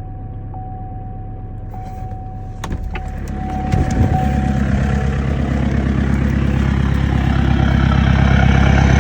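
2014 Chevrolet Cruze Diesel's 2.0-litre turbodiesel idling seconds after a cold start in below-20°F weather, after three days sitting. A steady beep-like tone sounds over the first few seconds, with a couple of clicks, and the engine grows louder from about four seconds in.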